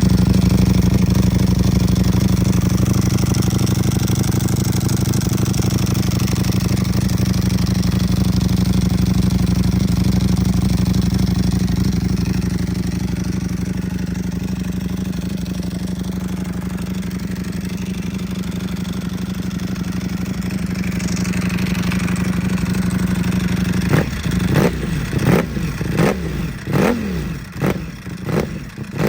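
2023 Ducati SP2's V4 engine, breathing through an Austin Racing exhaust, idling steadily, then given about six quick throttle blips near the end, each rev rising and falling sharply. The dry clutch's rattle is heard over the exhaust.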